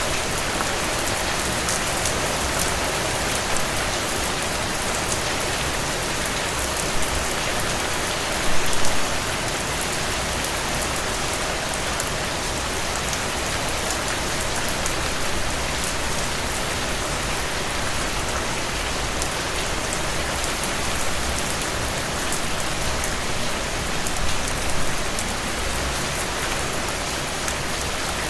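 Steady rain falling on a surface, a dense even patter of drops, with a few slightly louder splashes about nine seconds in and again near the end.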